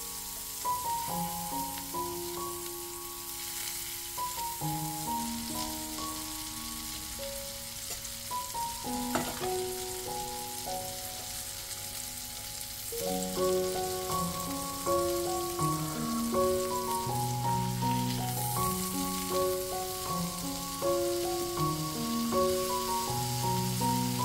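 Beef burger patties sizzling steadily in hot oil in a cast-iron pan, under a background music melody that grows busier and louder about halfway through.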